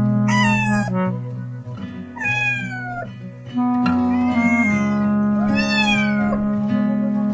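A cartoon cat meows four times, each a pitched call that swoops up and then falls away, over background music with sustained notes.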